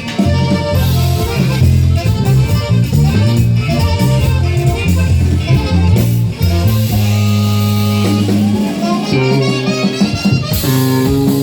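Norteño cumbia band playing: a bouncing bass line with a reedy lead over it, changing to long held notes from about seven seconds in.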